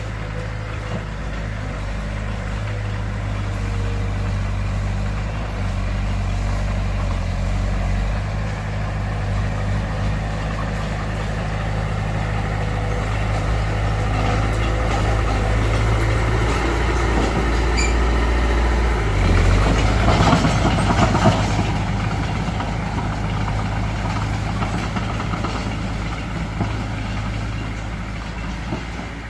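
Heavy diesel engine of earthmoving machinery running steadily, growing gradually louder, with a louder stretch of rattling noise about twenty seconds in.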